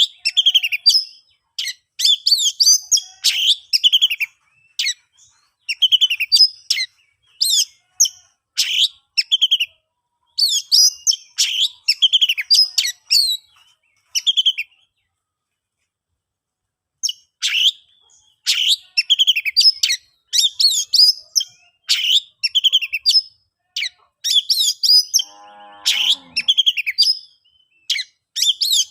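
Oriental magpie-robin (kacer) singing loudly in fast bursts of varied, sweeping whistled phrases, with a pause of a few seconds midway.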